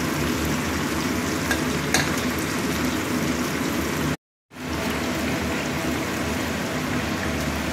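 Fish heads and whole garlic cloves sizzling steadily in hot oil in a steel wok. The sizzle cuts out completely for a moment about four seconds in, then resumes.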